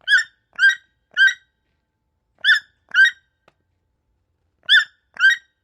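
Toucan calling: short calls repeated, three in quick succession, then a pair about a second later, and another pair near the end.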